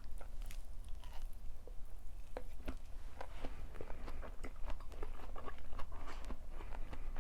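A person chewing food close to the microphone, with a dense run of small crunchy, wet clicks that grows busier after about two seconds.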